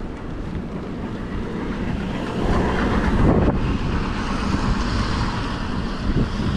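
Wind buffeting the microphone of a chest-mounted GoPro on a moving bicycle, a dense rushing noise with a louder swell about three seconds in.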